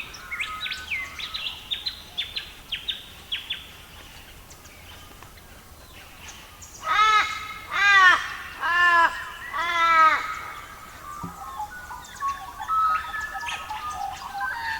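Wild birds calling: a run of quick, high, falling chirps, then four harsh caws about a second apart, then a busy chattering song near the end.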